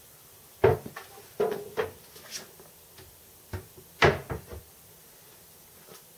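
Rummaging through a workshop cupboard: a string of sharp knocks and clatters as cupboard doors and stored tools are moved, loudest about half a second in and again about four seconds in.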